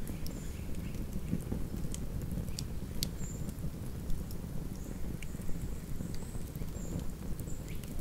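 Wood campfire crackling, with scattered sharp pops and snaps over a low steady rumble of burning flames; the loudest snap comes about three seconds in.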